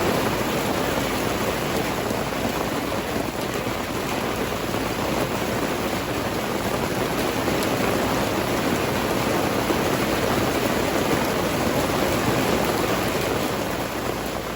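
Steady rain falling, a dense even patter with no distinct drops standing out, easing slightly near the end.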